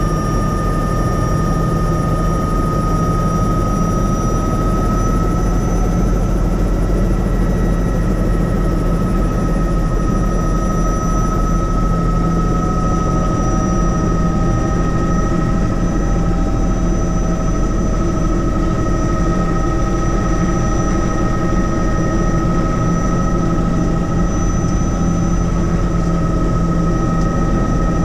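Helicopter in steady flight: continuous rotor and engine noise with a low rumble and a steady high whine.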